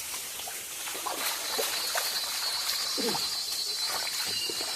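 Stream water running, with a steady high-pitched insect drone setting in about a second in.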